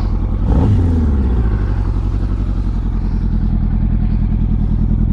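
Yamaha R1 superbike's inline-four engine idling, with a short throttle blip just under a second in that falls back to a steady, pulsing idle.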